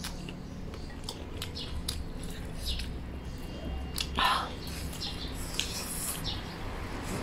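Eating sounds: crisp bites into and chewing of pan-fried chilli-powder cakes made of rice flour and chilli, heard as many short crackly clicks, with a louder crunch about four seconds in and a slurp from a soup bowl near the end.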